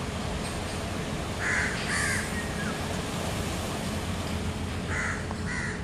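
Bird calls: two pairs of short, harsh calls about a second and a half in, and again near the end, over a steady background hiss.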